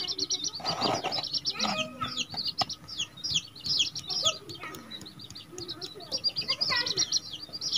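Birds chirping in quick, short bursts throughout, with a lower, bending call near the end.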